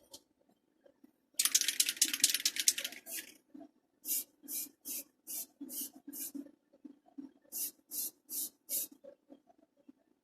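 Aerosol can of metallic blue paint spraying: one longer burst, then a run of short, quick squirts, two or three a second, laying on a light coat without flooding.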